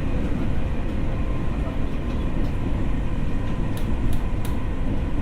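Tokyo Metro 6000 series electric train heard from inside while running at steady speed. There is a continuous low rumble of wheels on track with a faint steady whine above it, and a few sharp clicks about four seconds in.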